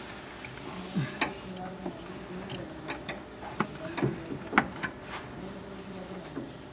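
Irregular sharp metallic clicks and clinks of hand tools working on metal, over a steady background hum.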